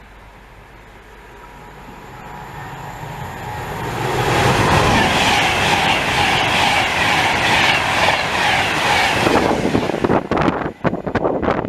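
A train passing close by on the line, its noise building over about three seconds to a loud, steady rush of wheels on rail. About ten seconds in it gives way to ragged gusts of wind buffeting the microphone.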